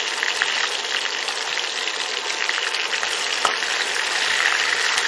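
Marinated prawn kababs frying in hot oil: a steady sizzle with fine crackling.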